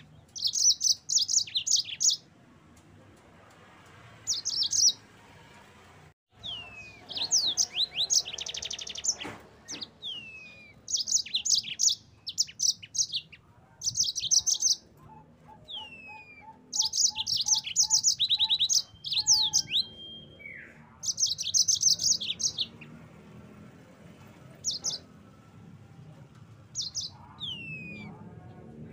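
Yellow-fronted (Mozambique) canary singing: short phrases of fast, high trills mixed with downward-sliding whistles, repeated every second or two with short pauses between.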